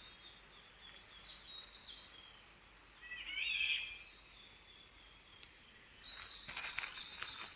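Wild birds singing: thin, high whistled notes with a louder burst of quick warbling chirps about three seconds in.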